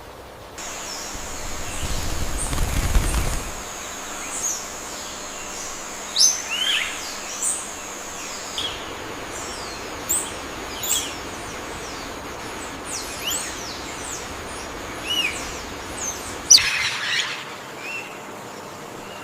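Birds giving short, scattered chirps and whistles over a steady high-pitched hum. A low rumble swells about two to three seconds in, and one sharp, louder call comes near the end.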